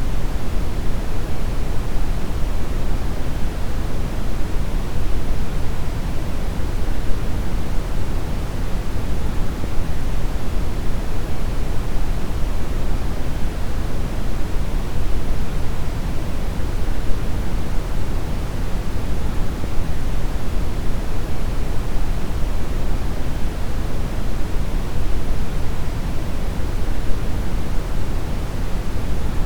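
Steady deep brown noise: an even, unchanging hiss weighted heavily toward the low end, a deep rumble with little treble.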